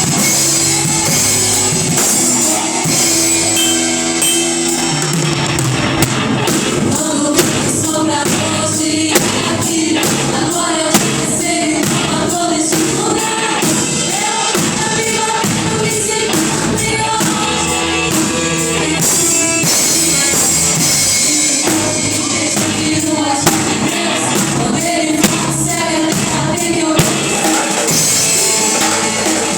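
Live gospel worship music: a band with drum kit playing while voices sing.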